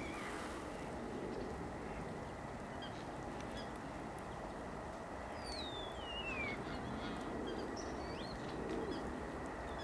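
Steady wind noise, with one high call about five and a half seconds in that falls in pitch over about a second.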